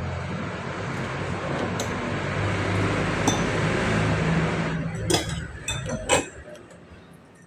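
A steady rushing noise with a low hum runs and then stops about five seconds in. Several sharp clinks of glass or dishware follow near the end.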